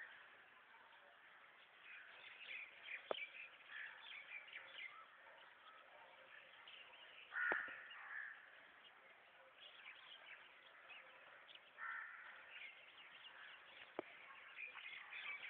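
Faint birds calling and chirping, with two louder calls about seven and a half and twelve seconds in, and a few sharp clicks.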